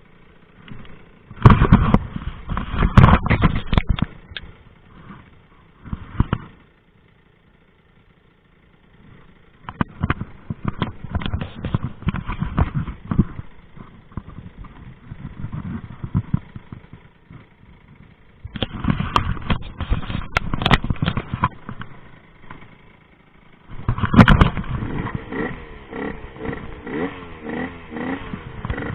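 Rieju MRT 50 two-stroke moped engine revving hard in repeated bursts, with sharp cracks among them. It drops almost to silence for a few seconds about a quarter of the way in. Near the end the revs swing up and down quickly.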